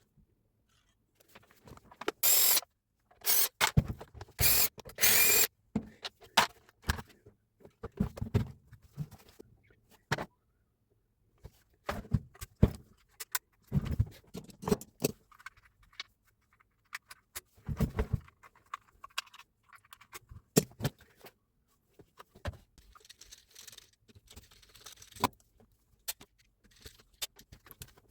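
Clinks, knocks and scrapes of metal parts and hand tools being handled, typical of a rotary hammer being worked on at the bench. There are three short, loud, rushing bursts between about two and five and a half seconds in.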